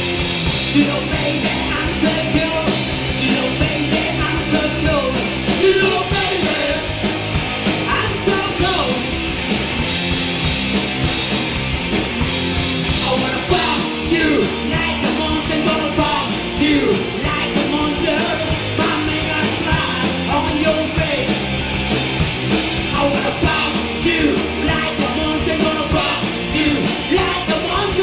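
Punk rock band playing a song live, with a singer's voice over the full band.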